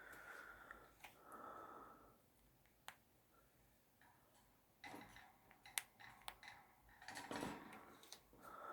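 Faint scattered clicks and rustling, as of a pet conure working at a homemade toy with its beak, with a couple of short soft tones near the start.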